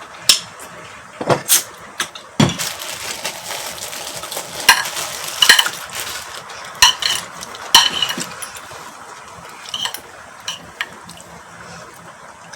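Spoon and fork clinking and scraping against plates and bowls during a meal, in a dozen or so irregular, separate clinks.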